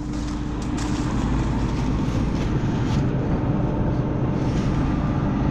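Combine harvester running steadily, a constant mechanical drone with a steady hum, while a drive belt has just been thrown off and the machine has plugged.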